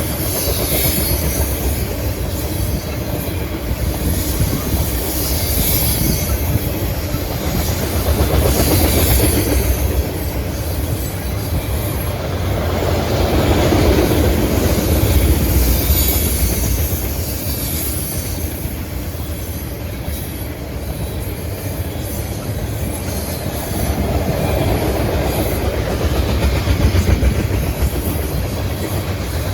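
Ethanol freight train of tank cars rolling past, a steady rumble of steel wheels on rail with clicking over the rail joints and high wheel squeal that comes and goes.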